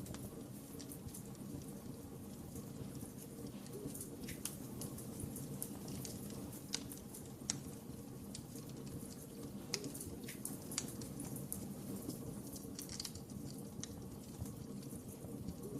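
Fireplace fire burning with a steady low rumble and hiss, broken by irregular sharp crackles and pops.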